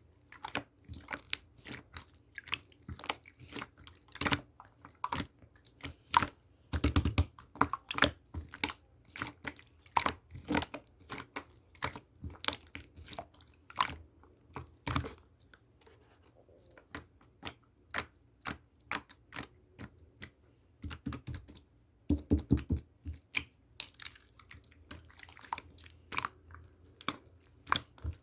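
Slime being squeezed and poked by hand, making an irregular run of sharp clicking and crackling pops, several a second, with denser bursts of squishing about seven and twenty-two seconds in.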